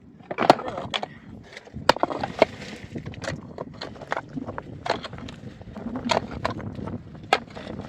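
Irregular knocks and clatter of wooden timbers being handled and set down, with a brief scraping rustle about two and a half seconds in.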